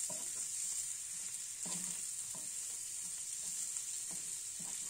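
Prawns frying in oil in a pan, a steady high sizzle, while a wooden spatula stirs them, scraping and tapping the pan a few times.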